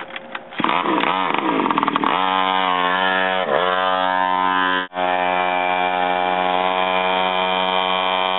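A small engine revving up, dipping and climbing again, then running steadily at high speed, with a brief cut-out about five seconds in.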